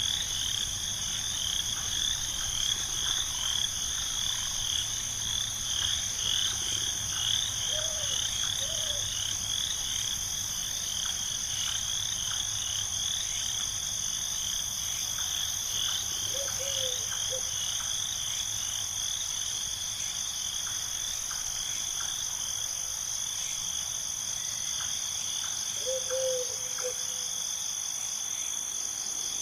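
Night chorus of frogs and insects: a steady high insect drone under fast, continuous chirping calls, with a brief lower call three times.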